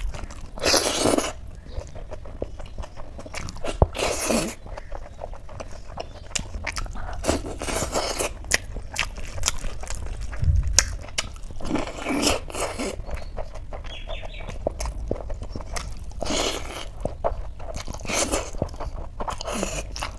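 Close-miked eating by hand: wet chewing and mouth sounds that come in louder spells every few seconds, with many small clicks and fingers working rice against a steel plate between them.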